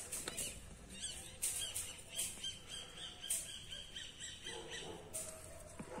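Small birds chirping and twittering faintly, with a few short sharp clicks in between.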